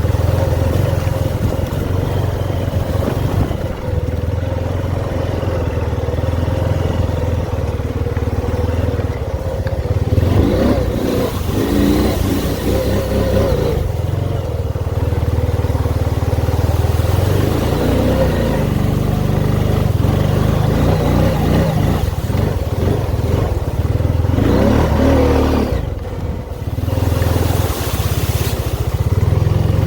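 ATV engine running under way, revving up and down as it is ridden, with a short dip in loudness a little before the end.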